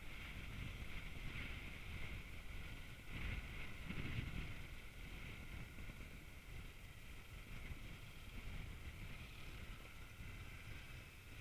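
Wind rushing over the microphone above a steady low rumble, swelling briefly a few seconds in.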